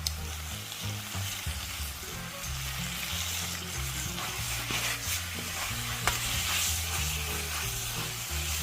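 Pork belly and bean sprouts sizzling in a hot wok as they are stir-fried, with a couple of sharp clicks about five and six seconds in.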